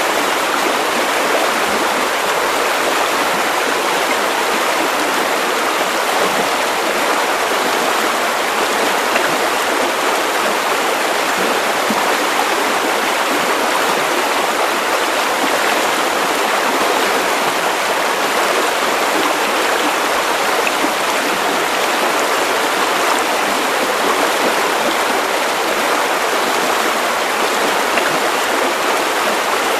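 Steady white noise: an even, unbroken hiss with little deep rumble, constant in level throughout.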